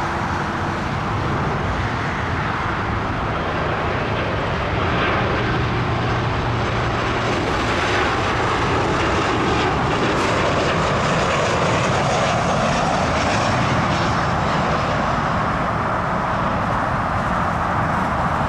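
Jet airliner engines running, a steady rushing noise that grows a little louder about four and a half seconds in.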